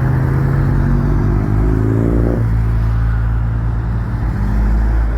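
Car engine pulling away: the revs climb, drop about two and a half seconds in, then settle into a steady low drone.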